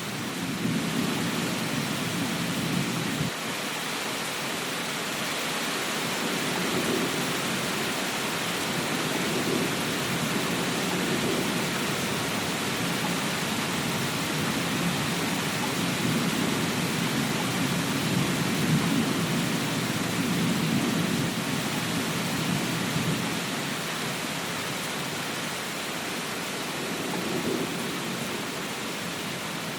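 Steady rain, an even hiss, with a low rumble underneath that swells and fades several times.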